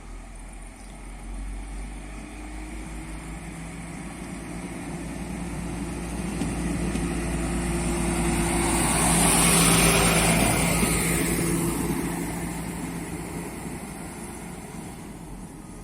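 Diesel train passing by. The engine drone builds to its loudest about ten seconds in, with a rising hiss of wheels on rail, then fades away.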